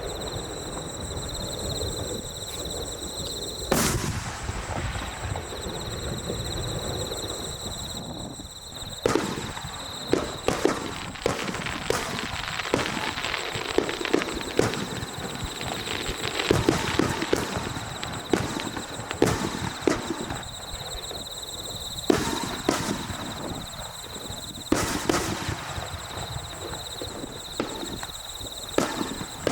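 Aerial fireworks bursting: a single big bang about four seconds in, then a long run of rapid popping and crackling bursts from about nine seconds on.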